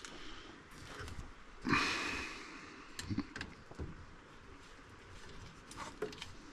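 Plumbing fittings and tools being handled: one louder rasping sound lasting about half a second about two seconds in, then several light clicks and knocks.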